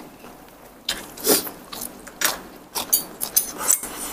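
Close-up eating of a frog salad: a run of sharp crunches and clicks as mouthfuls with small soft frog bones are chewed, densest near the end.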